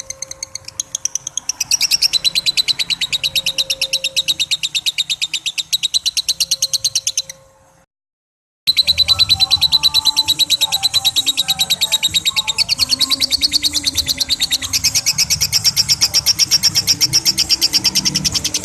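Lovebird's long 'ngekek' chatter: a fast, unbroken run of sharp, high calls. It stops dead for about a second near the middle, then picks up again, louder.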